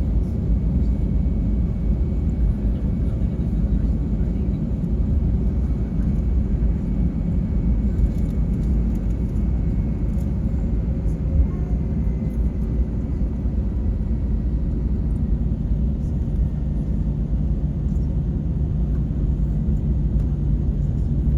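Steady low rumble of an airliner's jet engines heard from inside the cabin. A faint thin whine runs through the first half, and a low steady hum settles in about two-thirds of the way through.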